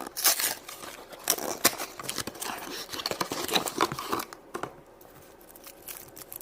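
Wrapping of a chocolate surprise egg being crinkled and torn open by hand: irregular crackling and rustling, easing off briefly near the end.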